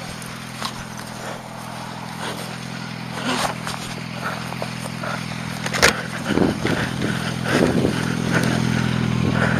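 Motorcycle engine running steadily, with scattered scrapes and knocks and one sharp knock about six seconds in.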